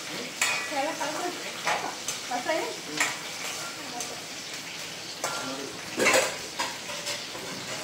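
Food sizzling in a metal wok on a gas burner while a spoon stirs it. Several sharp scrapes and clinks of the spoon against the pan, the loudest about six seconds in.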